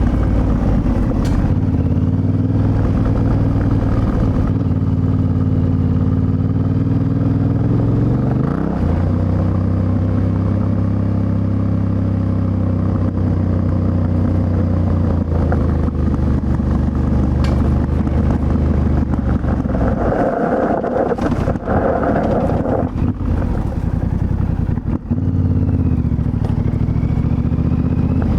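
Yamaha Ténéré 700's CP2 parallel-twin engine running under way, its pitch stepping and gliding as the throttle and gears change. There is a gear change about a third of the way in, then a long steady pull, and the engine drops off briefly and picks up again near the end.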